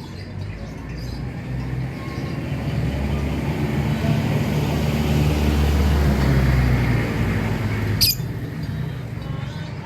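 A motor vehicle passing close by: its engine rumble swells, peaks around six seconds in and fades away. A single sharp, high lovebird chirp cuts in about eight seconds in.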